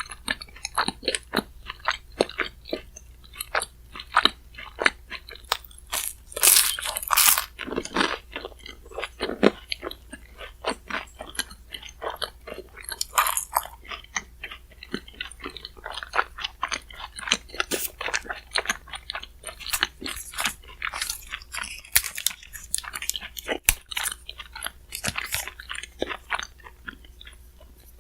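Close-miked chewing and crunching of shaved ice topped with chocolate-chip cookie pieces: a dense run of crisp crunches and wet chews, with a louder stretch of crunching about six to seven seconds in.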